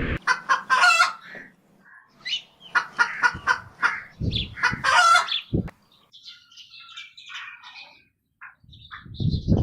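Chickens and a rooster calling in several loud bursts, then small birds chirping more faintly.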